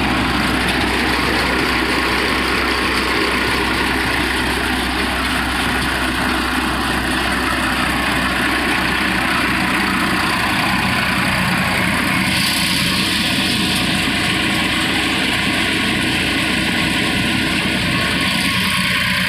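Tractor engine and the tractor-driven groundnut thresher it powers running steadily under load, a dense continuous mechanical noise. About twelve seconds in, a brighter high hiss joins it.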